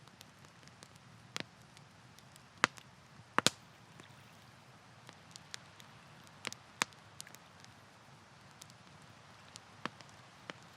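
Wood campfire crackling: irregular sharp pops and snaps over a soft steady hiss, with the loudest cracks a little under three seconds in and another pair soon after.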